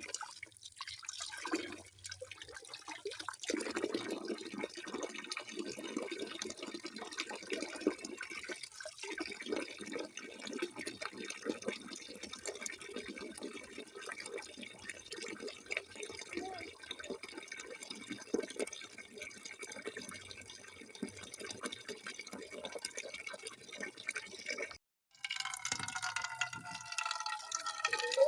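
Water running from a tap and splashing into a basin in a steady, continuous stream. About 25 seconds in it cuts out for a moment and comes back with a more ringing, pitched sound.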